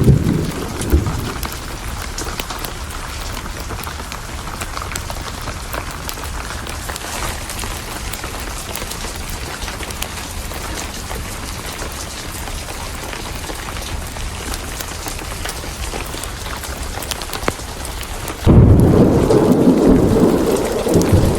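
Steady rain with thunder: a low rumble dies away in the first second, then a loud peal of thunder breaks suddenly near the end and keeps rumbling.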